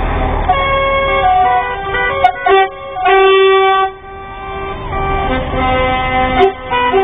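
Truck air horns sounding in a series of overlapping blasts at several different pitches, with the loudest, longest blast about three seconds in.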